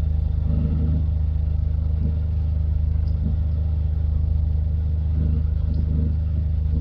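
Diesel engine of the river tug RT-178 running at a steady speed: an even low drone.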